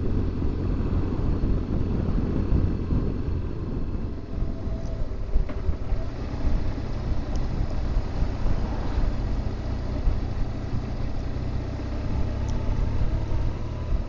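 BMW R1200GS Adventure motorcycle's boxer-twin engine running steadily while being ridden along the road, with a continuous low rumble.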